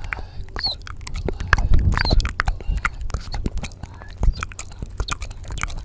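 Close-miked ASMR mouth sounds: rapid, irregular wet clicks and smacks with a few short squeaky chirps.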